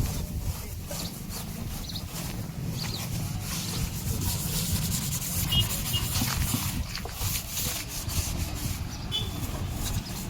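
Rubbing and scraping with scattered light clicks and taps: hand work on a front-load washing machine's steel drum during replacement of its broken drum spider.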